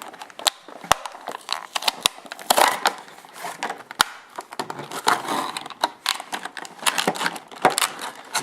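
Plastic blister packaging and card being handled and opened by hand: irregular crinkling with many sharp clicks and snaps.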